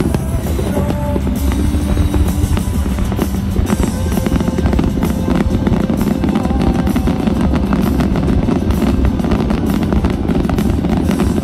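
Music with a drum beat, over the dense crackling and popping of aerial fireworks.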